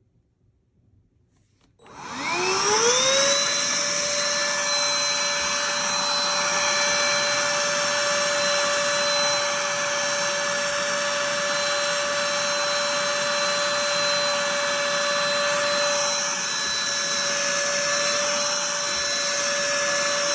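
Cordless handheld vacuum switched on about two seconds in: its motor whine rises as it spins up, then holds steady.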